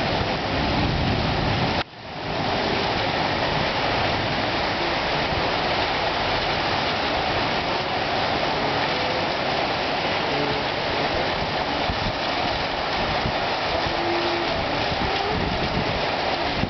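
Heavy tropical rain falling in a steady, dense hiss, with a brief dip about two seconds in.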